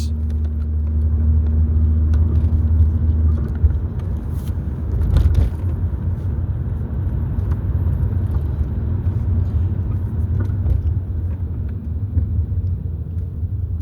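Steady low rumble with a faint hum for the first few seconds and a few light knocks around four to five seconds in.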